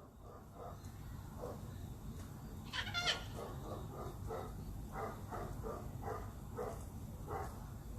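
A parrot calling in a string of short, pitched calls, about one or two a second, with one louder, higher squawk about three seconds in.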